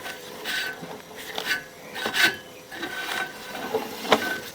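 Drain inspection camera's push-rod cable being fed along the sewer pipe: a run of irregular scraping and rubbing strokes with a sharp click near the end.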